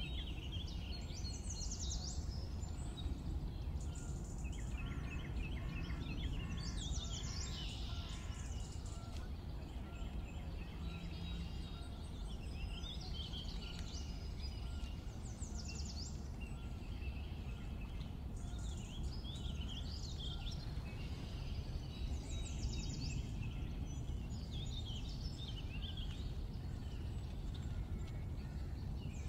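Songbirds singing in short bursts of chirps and trills over a steady low rumble of outdoor background noise. Similar song phrases recur about every seven seconds, like a looped nature ambience.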